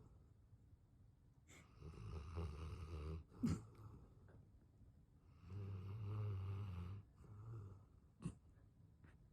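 English mastiff snoring loudly: two long snores about four seconds apart, with quieter breathing between. A short sharp snort comes right after the first snore and another near the end.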